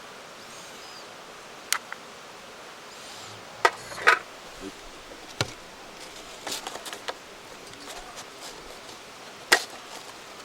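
A handful of sharp, separate clicks and knocks, with a small run of lighter ticks in the middle, over a steady outdoor hiss.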